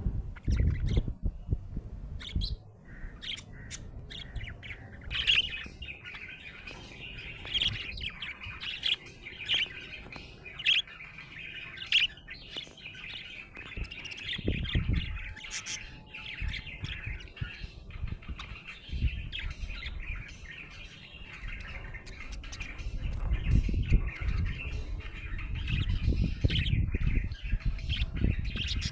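Budgerigar chirping and warbling, a steady stream of short high chirps with occasional harsher squawks. Bumps and handling noise sound underneath at times, most around the middle and toward the end.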